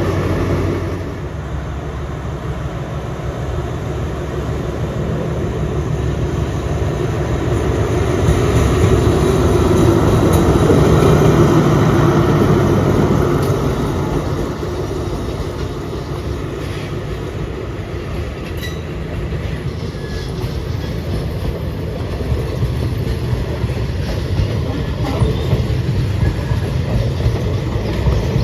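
A train running past on the track, a continuous rumble that swells to its loudest about ten seconds in and eases off. It builds again near the end, with sharp clicks of wheels over rail joints.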